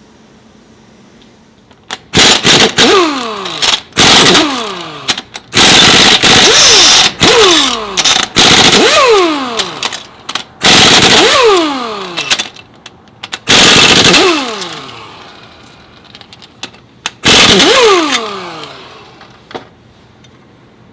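Pneumatic impact wrench run in about eight short loud bursts, its motor whine falling in pitch after each trigger release as it spins down.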